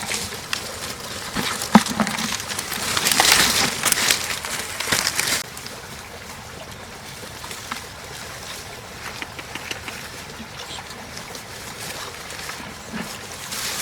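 Shallow floodwater trickling and running, with a few seconds of louder splashing and clicks in the water about two to five seconds in, then a steady trickle.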